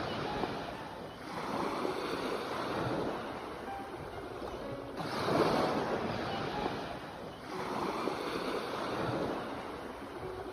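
Sea waves washing in on the shore in slow surges, each a rushing swell that builds and ebbs over a few seconds. There are about three surges, the loudest about halfway through.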